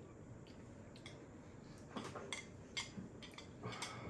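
A few faint, light clicks of a spoon against a dish, spaced out over a couple of seconds, in an otherwise quiet room.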